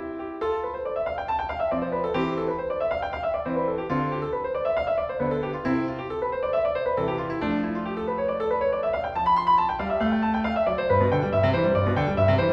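Background piano music: quick runs of notes rising and falling in repeated arpeggios over held bass notes.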